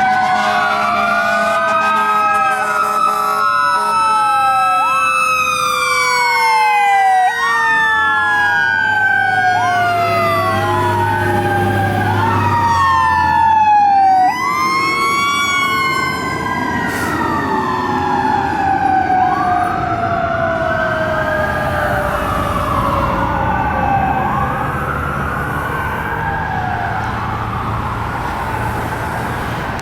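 Sirens of two responding fire trucks, a KME aerial ladder truck and a Spartan Metro Star engine, several wailing sweeps rising and falling at once. A low engine rumble comes in as they pass about halfway through, the siren pitch drops as they go by, and the sound slowly fades toward the end.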